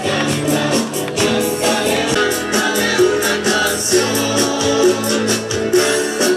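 Church choir music: guitars and percussion playing a hymn with a steady beat, with singing.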